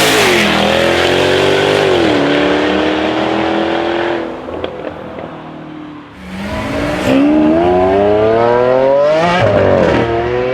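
Jaguar F-Type R's supercharged V8 with a straight-piped Larini exhaust, accelerating hard. A loud pull fades away about four seconds in. A second full-throttle pull then climbs steadily in pitch from about six seconds and drops sharply near the end.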